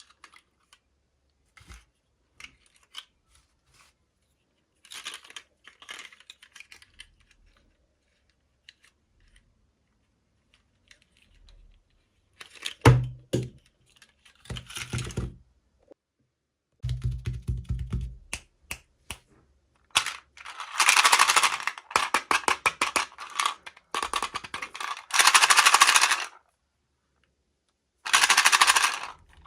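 Miniature toys and their small plastic packaging being handled and opened: scattered light clicks, then several bursts of rustling packaging, with two dull bumps about halfway through.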